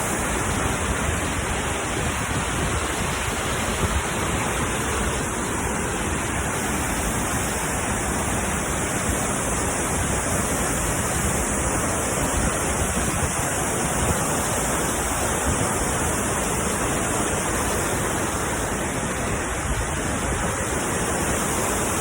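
Burney Falls waterfall pouring: a steady, unbroken rush of falling water.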